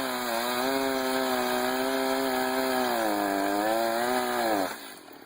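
Two-stroke chainsaw running at high revs. Its pitch sags slightly twice, as under load, then it stops near the end.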